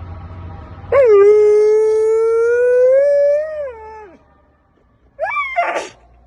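A dog howling: one long, steady howl lasting about three seconds that falls away at the end, then a shorter rising howl near the end.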